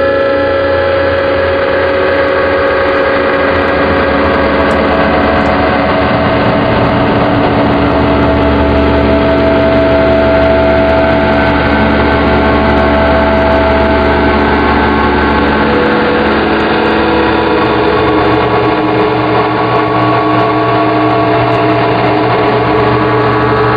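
METSÄÄN Dirty Drone #21 handmade analog drone synth playing a thick, steady drone: several held oscillator tones stacked over a deep low hum, the tones shifting in pitch now and then.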